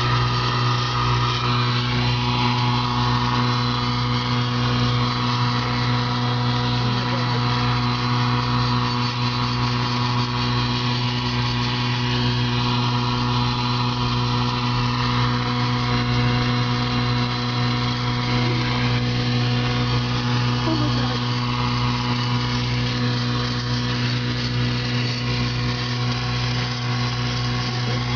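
A steady mechanical hum, like a running engine or motor, holding an even pitch with a slow, regular throb underneath.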